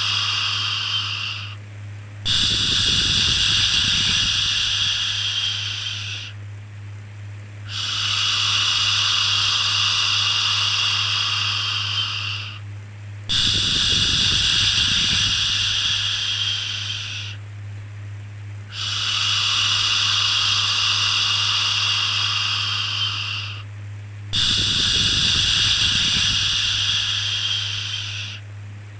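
Repeated shushing, 'shhh', for soothing a baby: long hissing shhh sounds of about four seconds each, separated by short gaps, about six in all, over a steady low hum.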